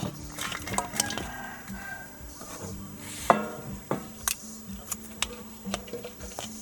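Kitchen utensils knocking and clinking against pots and dishes in a run of irregular sharp taps, with one louder ringing metallic clink about three seconds in.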